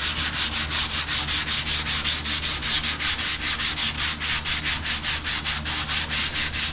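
Hand sanding flaking paint off a truck cab's sheet-metal panel: quick, even back-and-forth scraping strokes, about five or six a second, to feather the paint edge back to bare metal.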